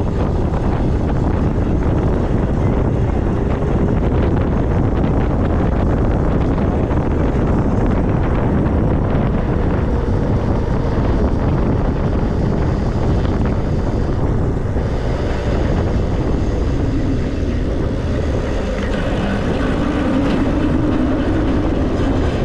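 Steady wind rushing over the microphone of a moving e-bike, mixed with the hum of tyres on the road.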